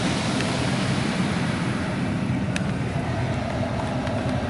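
Car wash air dryer blowing onto the car, heard from inside the cabin: a steady rush of air over a low rumble, with a single click about halfway through.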